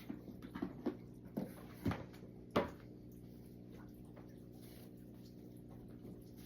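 Several light taps and knocks, about seven in the first three seconds with the sharpest near the end of that run, from a shoe and a cleaning wipe being handled, over a steady low hum.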